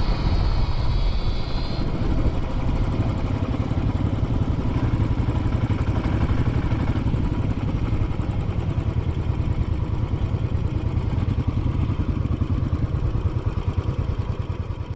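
Royal Enfield Classic 500's single-cylinder engine running steadily under way, with a fast, even pulse.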